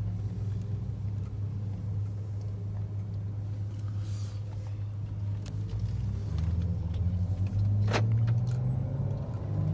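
Twin-turbocharged BMW 328i inline-six heard from inside the cabin, running steadily, then pulling harder and louder from about six seconds in. Near the end a faint rising turbo whistle comes in as the turbos start spooling.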